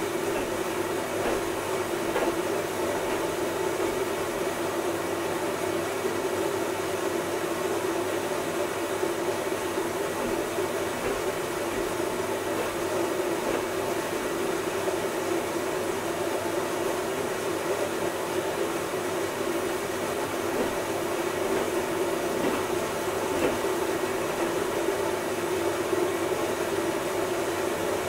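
Washing machine running with a steady whir and low hum.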